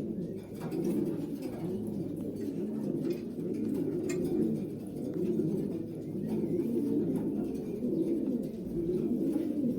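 Several racing pigeons cooing continuously, their low coos overlapping.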